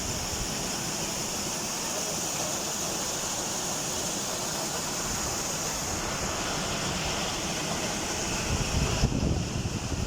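Steady rush of falling water from a waterfall. About nine seconds in the high hiss drops away and a louder, uneven low rumble comes in.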